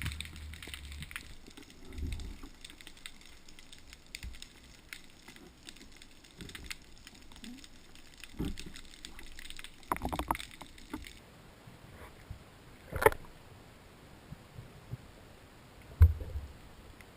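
Scattered knocks and handling sounds over light water noise, with two sharper knocks late on, the last with a low thump.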